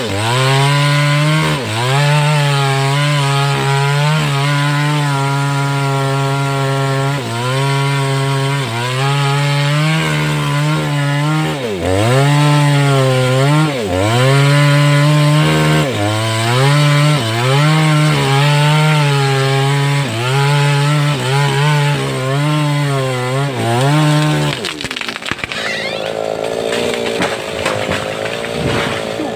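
A 588X chainsaw cutting through sengon wood at full throttle, its engine note repeatedly sagging and recovering as the chain bites into the cut. Near the end the high-revving note stops and a quieter, steady sound follows.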